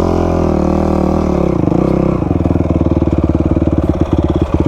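Dirt bike engine revving up and back down over the first two seconds, then settling into a steady, pulsing idle.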